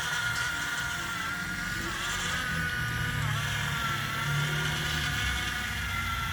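Small electric motors of radio-controlled construction models whining steadily, the whine dipping briefly in pitch a few times as the motors take load, over a low hum.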